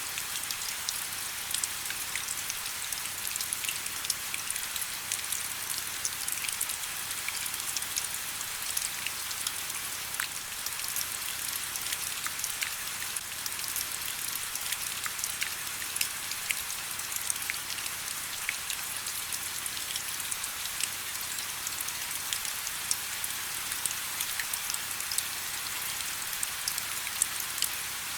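Steady rain: a continuous high hiss dotted with many sharp ticks of individual drops.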